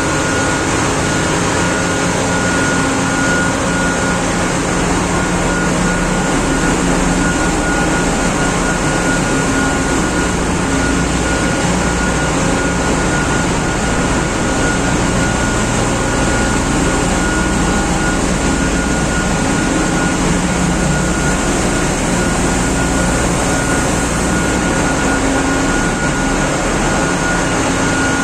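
Ship's engine room machinery running: a loud, steady drone with a thin high whine riding over it.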